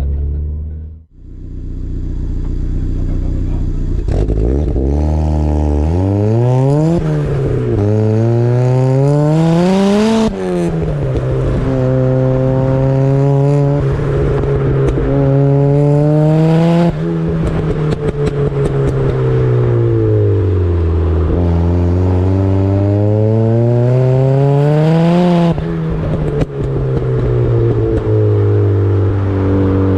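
Turbocharged Mazda MX-5's four-cylinder engine under hard acceleration on a sprint run. The revs climb steeply and drop back at quick upshifts about 7 and 10 seconds in. They then rise more slowly, fall away around 17 to 21 seconds, and climb again to a sharp drop about 25 seconds in.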